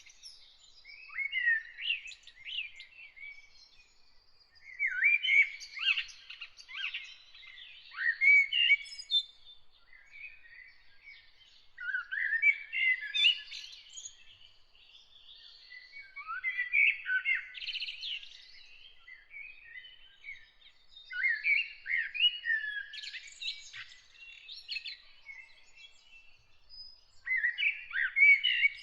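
Songbird song: phrases of rapid, varied warbling chirps, each lasting a few seconds and coming back about every five seconds with short pauses between.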